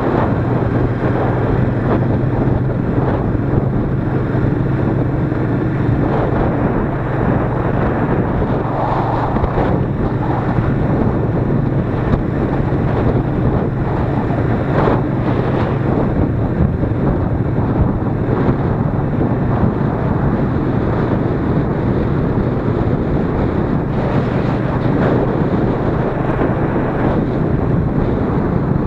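Royal Enfield Interceptor 650's 648 cc parallel-twin engine running at a steady cruise, buried under heavy wind noise on the microphone.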